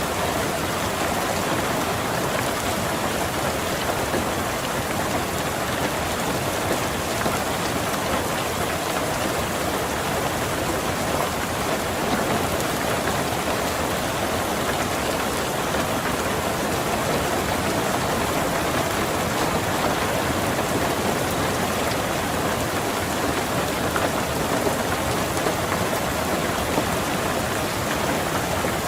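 Steady rain falling on a car, heard from inside the cabin, an even unbroken patter.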